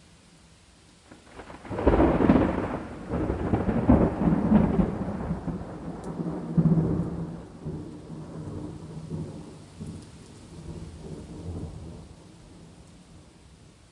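A thunderclap over steady rain: a sudden crack about two seconds in, then a long rolling rumble with several surges that slowly fades over the next ten seconds, leaving the rain hiss.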